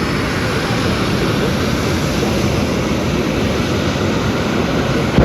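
Jet engine of a jet-powered fire truck running steadily at high power while standing still, a loud continuous rushing noise.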